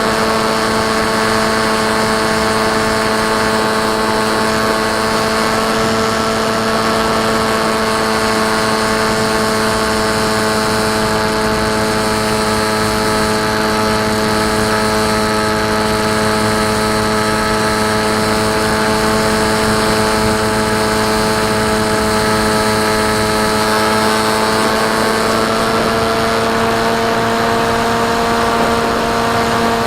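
KT Wing flying wing's electric motor and propeller running at a steady throttle: a steady whine of several tones over a haze of noise, rising in pitch at the very end as the throttle goes up.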